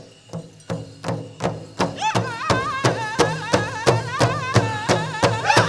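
Powwow drum group starting a prairie chicken dance song: a big drum struck in a steady beat, about three strikes a second, growing louder. About two seconds in, a high, wavering singing voice comes in over the drum.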